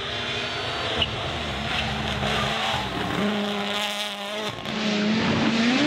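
Rally car engine running hard at speed over a steady rush of tyre and road noise, with a sharp knock about a second in. The engine note rises near the end as it revs up.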